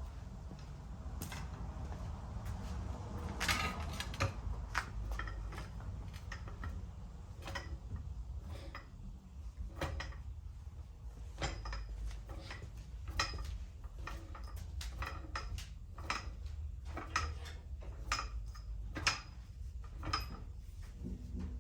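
Metal tools and parts clinking and clicking irregularly as the rear shocks are being unbolted from a car's suspension, over a steady low hum.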